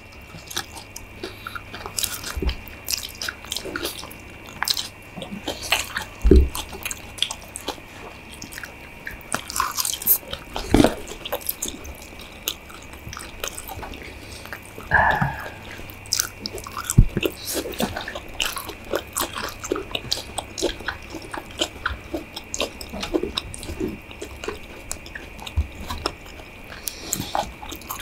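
Close-up eating sounds: people chewing and biting into stir-fried instant noodles with chicken and fried egg, with many irregular small clicks and mouth smacks.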